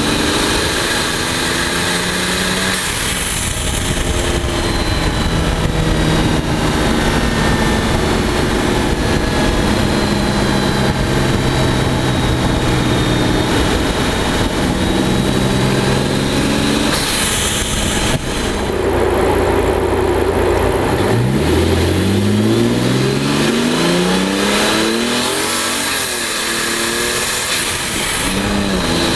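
Twin-turbocharged V12 of a heavily modified 2003 Mercedes CL600 under way. The engine note holds, steps down and climbs again as the car accelerates, with a faint high turbo whistle over it and a few rushes of air as the blow-off valves vent boost.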